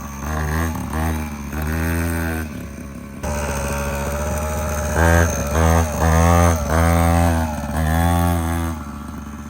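Mini motocross bike engine revving in repeated throttle bursts as it is ridden, its pitch rising and falling about once a second.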